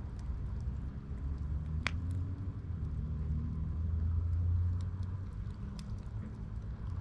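Campfire crackling with scattered sharp pops, the loudest about two seconds in, over the low rumble of a passing vehicle that swells through the middle and fades.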